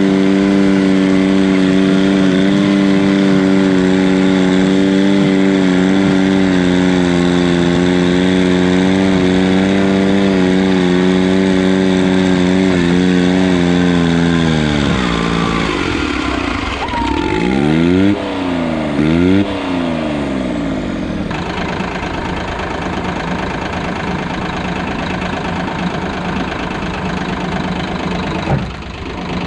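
Diesel garden tractor engine held steady at high revs for about half the stretch, the sound of a pull run, then dropping off sharply, blipped up and down twice, and settling to a lower steady run.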